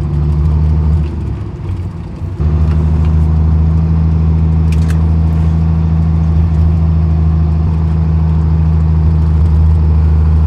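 Peterbilt 379's Cat C-15 diesel engine running under power with a steady low drone. About a second in it falls away briefly, then comes back sharply at about two and a half seconds and runs steady again.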